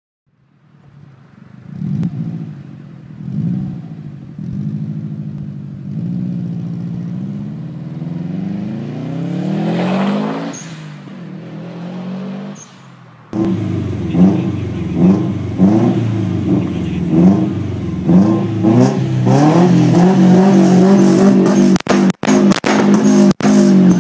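Subaru Impreza WRX STI (GDB) turbocharged flat-four accelerating past, the engine note climbing for about ten seconds and then falling away. After a sudden cut about 13 seconds in, a stationary Impreza STi's engine is revved hard in repeated blips, with loud backfire pops from the exhaust.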